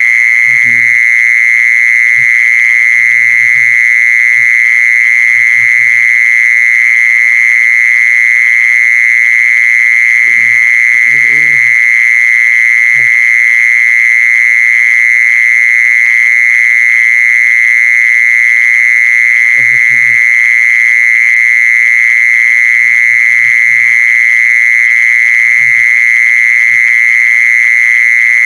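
A jizon insect (แมลงจีซอน) singing one unbroken, steady, high-pitched trill. Faint low knocks or murmurs come and go under it.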